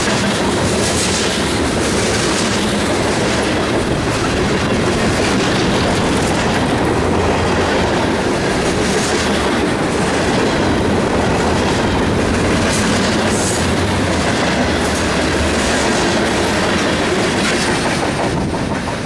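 Union Pacific freight train's cars rolling past, loud and steady, with the clickety-clack of the wheels over the rail joints.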